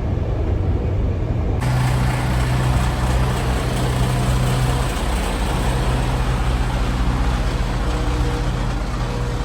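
Truck running on the road: a steady low engine hum under road noise, with the hiss suddenly growing louder and brighter about one and a half seconds in.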